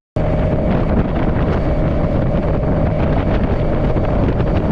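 Strong wind buffeting the microphone over a small boat's motor, which runs with a steady whine. The sound cuts in just after a moment of silence at the start.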